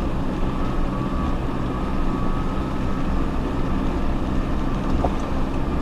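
Off-road 4x4 vehicle's engine running steadily as it drives.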